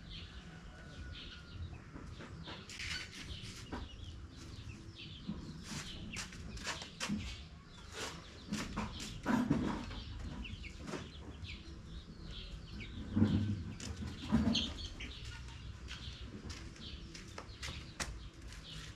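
Chickens clucking, with many short clicks and a few louder knocks about halfway through and a few seconds later.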